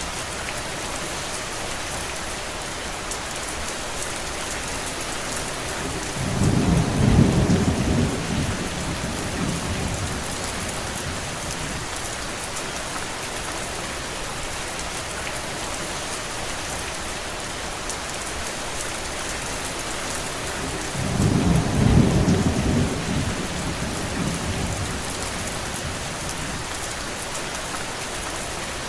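Steady rain falling, with two rolls of thunder: a deep rumble swelling about seven seconds in and another about twenty-two seconds in, each lasting a few seconds.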